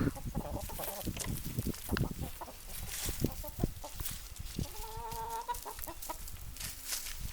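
Hens clucking while foraging, with one longer, drawn-out call about five seconds in.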